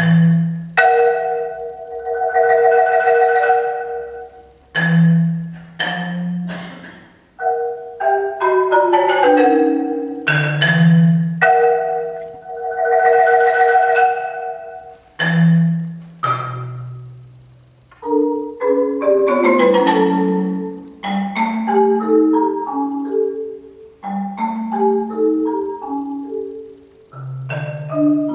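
Marimba played with mallets: rolled chords held for a few seconds, broken up by deep single strikes in the low register. About two thirds of the way through it changes to quicker runs of notes moving up and down.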